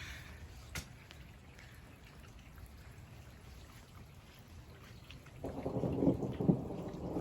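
Thunder during a thunderstorm: a quiet low rumble with rain, then a loud peal of thunder breaks about five and a half seconds in and keeps rumbling.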